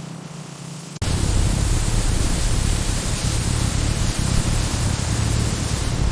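A low steady hum, then about a second in an abrupt cut to a loud, steady rushing noise with no distinct events.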